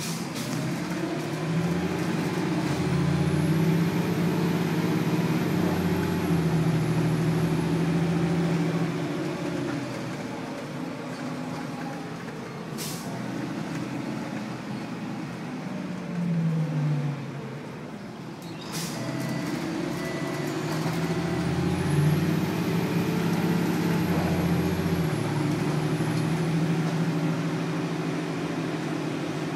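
Detroit Diesel Series 40 engine of a 2000 Nova Bus LFS heard from on board, pulling away twice and climbing in steps through the Allison automatic transmission's gears, with a faint high whine rising alongside. Between the two pulls the engine eases off, and two short air-brake hisses come near the middle.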